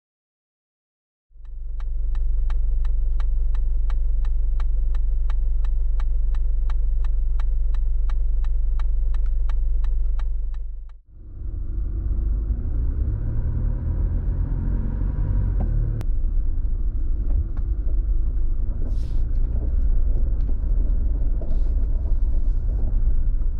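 A Toyota Land Cruiser Prado on the move, giving a steady low engine and road rumble. In the first half an even ticking runs about four times a second. After a sudden change about 11 seconds in, the rumble turns rougher and uneven.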